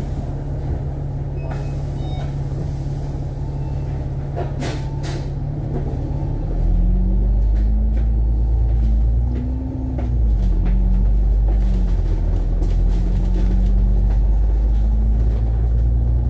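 Diesel engine of a double-decker bus heard from inside the cabin, idling at a stop. About six seconds in it revs up as the bus pulls away, its note rising and dipping through gear changes. A few short clicks or knocks come a little before it moves off.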